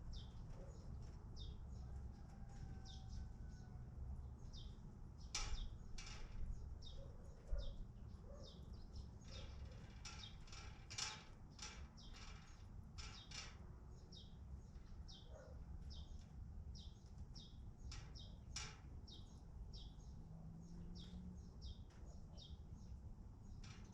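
Small birds chirping: many short, high, falling chirps repeating several times a second, with a few sharp clicks or taps in between over a low steady rumble.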